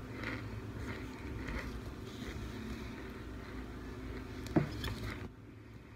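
Soft, closed-mouth chewing of crunchy baked chunks over a low steady hum, with one short sharp sound about four and a half seconds in.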